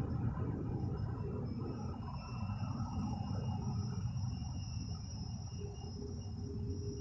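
Steady low outdoor rumble with a thin, steady high-pitched whine running above it.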